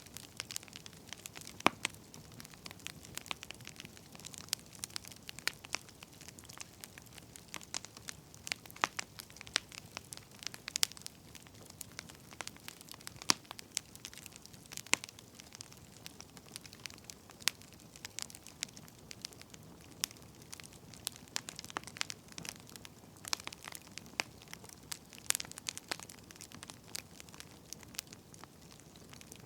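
Wood fire crackling: irregular sharp pops and snaps of varying loudness over a faint steady hiss.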